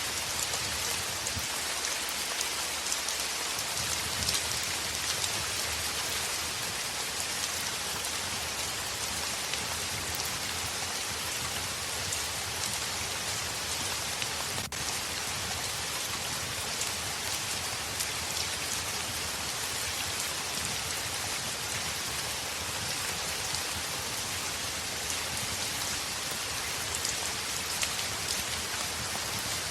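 Heavy rain falling steadily on a window: an even hiss with scattered small ticks of drops.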